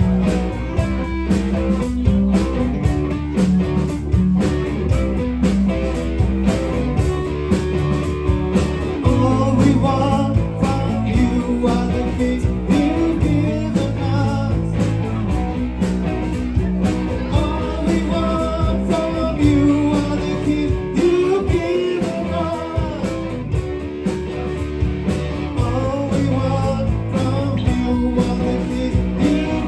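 Rock band playing live: electric guitars, bass guitar and drum kit, with a melodic line rising and falling above a steady low end.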